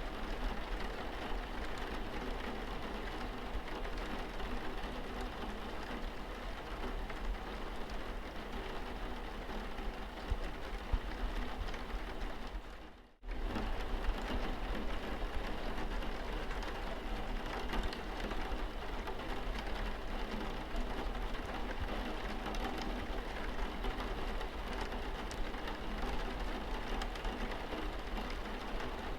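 Steady rain falling on a car's windscreen. The sound dips out for a moment about halfway through, then carries on unchanged.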